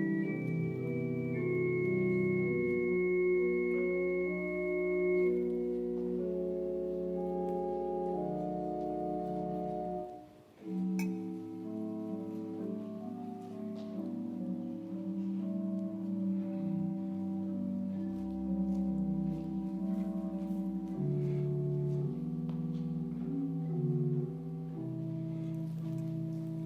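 Organ playing slow sustained chords during Communion, with a short break about ten seconds in.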